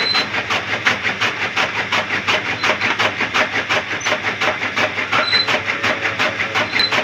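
A small motor-driven model mechanism rattling in an even rhythm of about six clicks a second.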